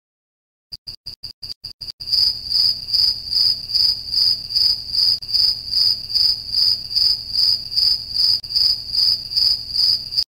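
Cricket chirping, a high trill: a few quick short chirps, then a steady pulsing trill about two and a half pulses a second that cuts off suddenly near the end.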